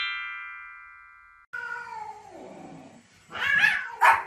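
A chime from a countdown title card rings and fades away over the first second and a half. Then a cat gives a long yowl that falls in pitch. Near the end come two loud, sharp animal cries, the second one short and bark-like.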